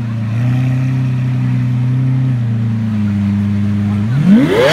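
Lamborghini Aventador's V12 idling steadily, its pitch stepping slightly up and back down. About four seconds in, a quick blip of the throttle sends the revs climbing sharply.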